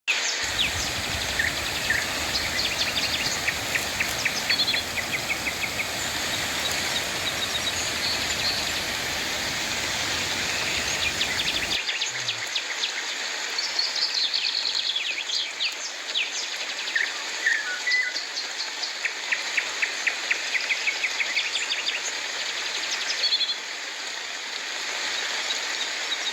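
Steady rain falling, with a bird calling several times in fast trills and short chirps. About halfway through, the low rumble under the rain drops away abruptly, leaving lighter hiss.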